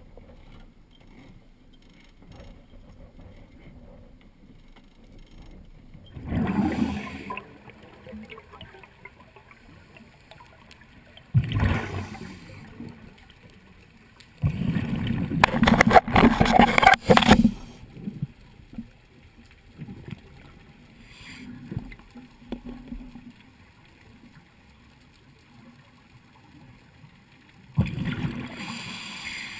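Water gurgling and bubbling in several irregular bursts, the longest and loudest about halfway through, with a faint steady background between them.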